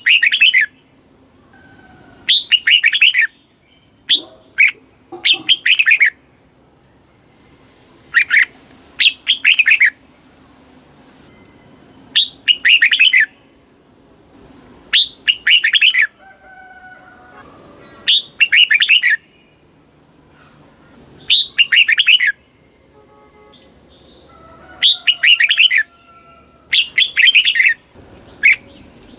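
Red-whiskered bulbul singing: short, bright, warbled phrases of about a second each, repeated every two to three seconds, about ten in all.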